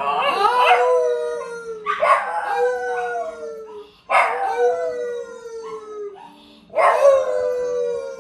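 A dog howling: four long howls, each starting high and sliding down in pitch, one after another about every two seconds.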